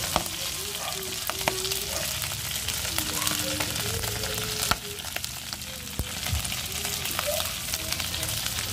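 Pork belly cubes and garlic sizzling as they fry in an aluminium pot, with a metal spoon clicking and scraping against the pot as they are stirred. The sharpest click comes a little under five seconds in.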